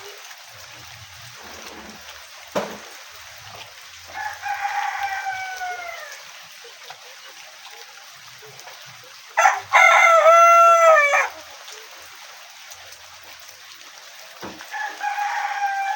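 Rooster crowing three times: a middling crow about four seconds in, a louder crow around ten seconds in, and another starting near the end, each falling in pitch as it ends.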